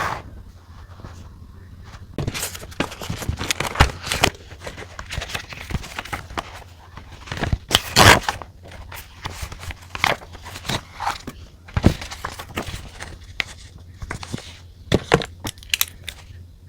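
Close-up sounds of a paper journal and stationery being handled: irregular scratchy rustles and light taps, with a longer, louder rustle about eight seconds in. A faint low hum runs underneath.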